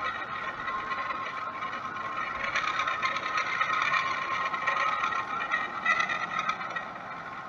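Steady engine noise with a whining tone in it, swelling for a few seconds in the middle and easing off near the end.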